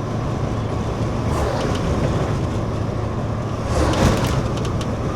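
Inside a moving truck cab, the engine drones steadily under road and wind noise from a strong crosswind. About four seconds in, a louder swell of noise comes with a few light clicks.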